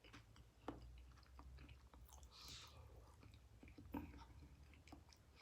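Quiet close-up chewing of soft food, with small wet mouth clicks and a brief hiss about two and a half seconds in.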